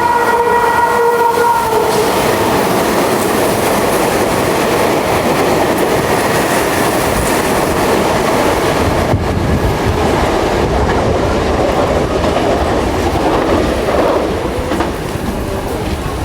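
Meitetsu 2000 series μSKY electric train passing through the station without stopping, its wheels clattering over the rail joints. The tail of its musical horn melody is heard in the first two seconds.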